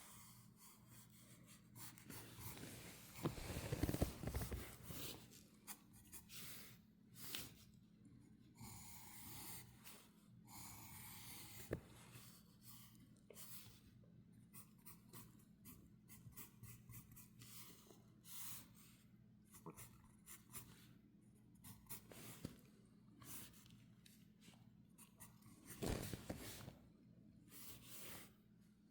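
Faint scratching of a drawing tool on paper, in many short strokes as a bird outline is drawn. It is broken by a louder rustle of handling about four seconds in and again near the end.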